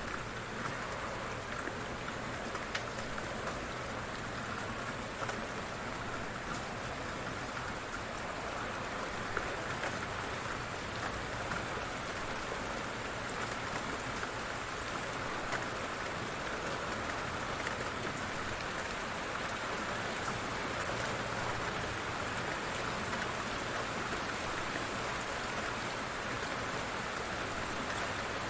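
Light rain falling steadily, a constant patter with scattered individual drop ticks.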